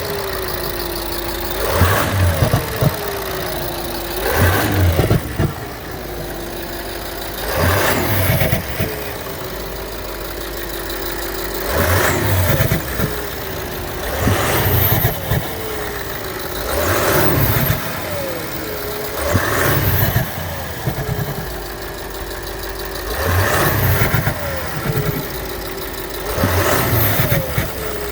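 Audi SQ7 V8 engine blipped about nine times, every three seconds or so, the revs falling back to idle after each blip, with a knock from the engine.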